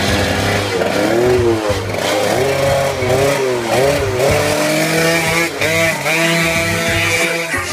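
Motorcycle engine revved hard, its pitch rising and falling over and over, then held fairly steady at high revs near the end.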